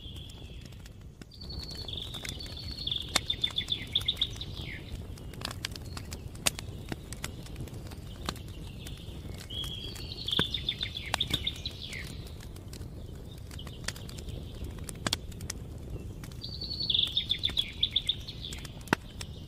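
A songbird sings the same short phrase three times, several seconds apart: a high opening note followed by a rapid trill that falls in pitch. Underneath, a campfire crackles with scattered sharp pops over a steady low rumble.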